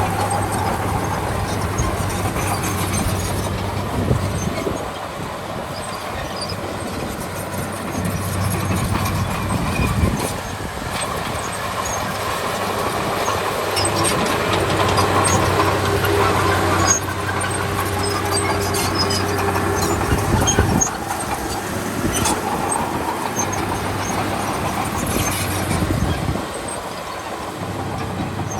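Komatsu D31P crawler bulldozer working: a steady diesel engine hum, with the steel tracks squealing and clanking as it moves. The level rises and falls every few seconds as the load changes.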